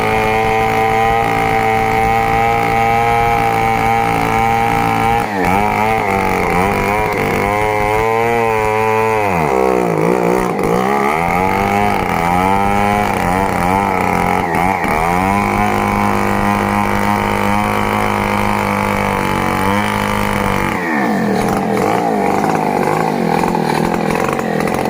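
Large two-stroke chainsaw, a Stihl MS 070, running at high revs while cutting wood. Its note sags and recovers several times as the cut loads it, holds steady again, and drops off near the end.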